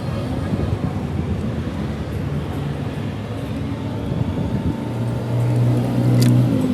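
Diesel truck engine running steadily with a low drone. It grows louder about five seconds in, then stops abruptly near the end.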